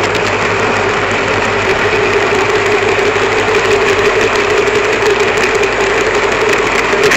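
N gauge model train running along the track, picked up by a camera riding on the train: a steady motor hum with a constant whine over the rumble and clatter of small wheels on the rails.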